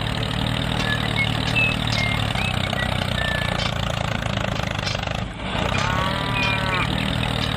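Engine running steadily at idle, with a few short high chirps in the first seconds and a brief pitched call about six seconds in.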